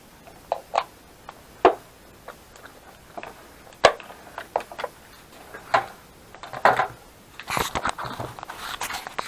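Handling noises: scattered sharp clicks and light knocks, the loudest a little under four seconds in, then a few seconds of rustling and crackling near the end.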